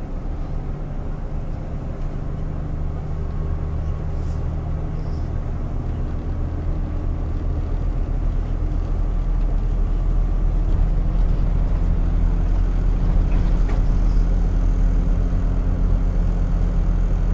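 Bus on the move: a steady low engine rumble that grows gradually louder over the second half, with a few faint clicks.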